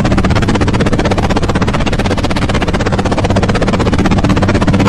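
A toy vehicle's plastic mechanism running with a steady, fast, even rattling buzz.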